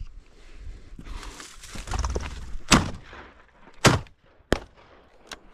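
A rustle of movement through brush, then two loud shotgun shots about a second apart, followed by a third, shorter bang.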